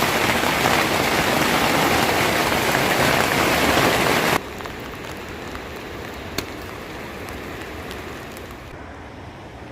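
Heavy rain, a loud steady hiss that cuts off abruptly about four seconds in to quieter, lighter rain, with a single sharp click partway through the quieter stretch.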